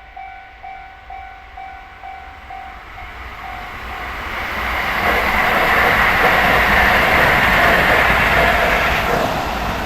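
Level-crossing warning bell ringing about twice a second, soon drowned out by a Sobu Rapid Line electric train passing. The train noise builds over a few seconds, is loudest in the second half, and eases near the end.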